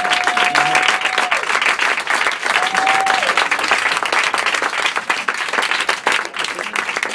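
Applause from a group of people, thinning out into scattered separate claps near the end. A steady whistle-like tone sounds over it at the start and fades about a second in.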